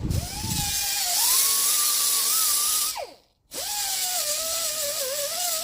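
A small high-speed rotary sanding tool whining against the steel tractor rim, its pitch wavering and sagging as it is pressed into the metal. It spins down and stops about three seconds in, then starts up again half a second later.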